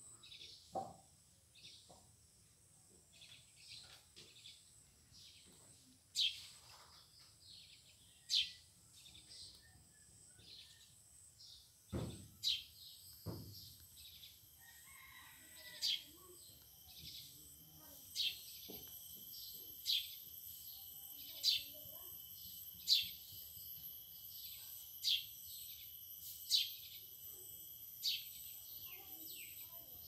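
A bird giving short, sharp, falling chirps, a few at first and then regularly about every second and a half, over a steady high insect buzz that comes in about halfway. Two dull thumps come near the middle.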